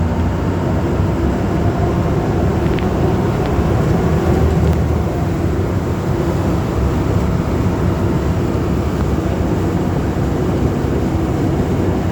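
Amphibious duck boat's engine running steadily while under way on the river, a constant low drone.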